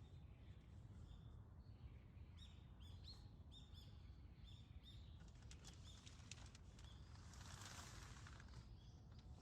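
Faint outdoor ambience with small birds chirping: a quick series of short, high, repeated chirps in the middle, over a steady low rumble, and a brief soft rush of noise near the end.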